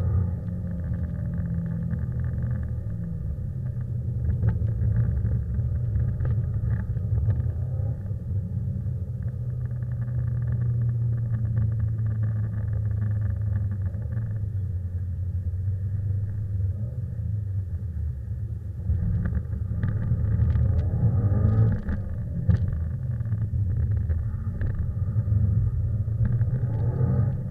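Subaru Impreza's flat-four boxer engine heard from inside the cabin, running hard with a deep, steady sound, its revs rising and falling a few times about two-thirds of the way through.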